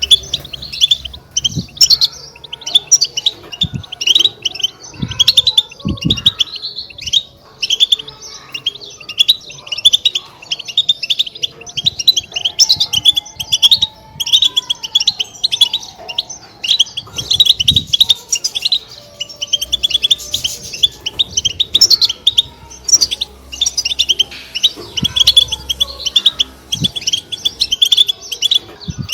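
European goldfinch chatter (batbata): a dense, unbroken run of quick, high twittering chirps, with a few dull low thuds now and then.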